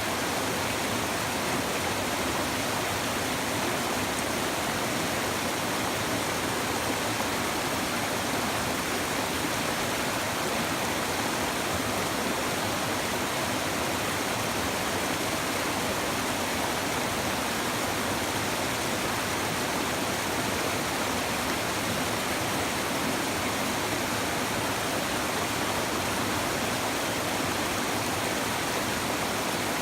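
River water babbling, a steady, even rush of flowing water with no breaks.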